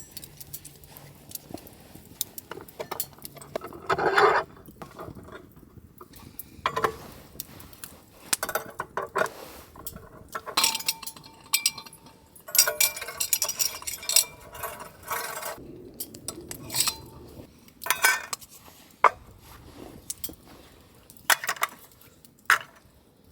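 Metal camp cookware and utensils clinking and clanking as they are handled, in irregular clusters of sharp knocks. A piece of metal rings briefly about halfway through.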